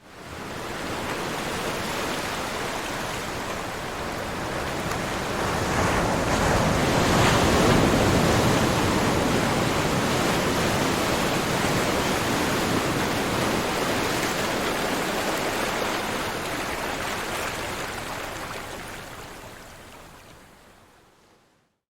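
Ocean surf: a continuous rush of waves that swells to its loudest about seven seconds in, then fades out gradually near the end.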